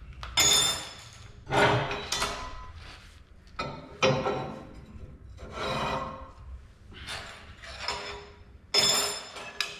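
Irregular scraping strokes of metal on steel angle iron, about eight of them, each with a faint metallic ring.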